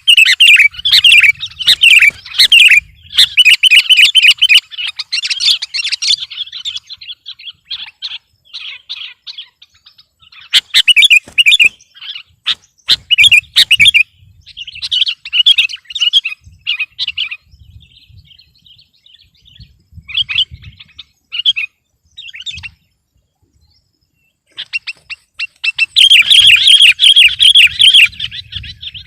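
Sooty-headed bulbul (kutilang) singing: rapid chattering trains of bright notes in loud bursts near the start, in the middle and near the end, with sparser, quieter notes and short pauses between.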